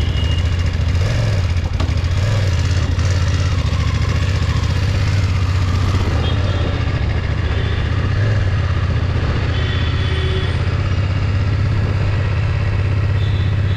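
Motorcycle engine running steadily with a constant low hum, neither revving up nor dying down.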